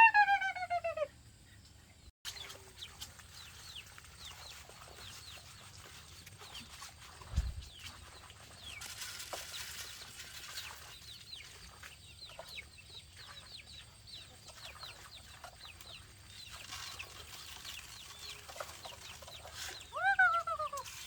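Farm chickens calling: many faint, high, falling peeps throughout, with a louder falling call right at the start and another near the end. A single dull thump comes about seven seconds in.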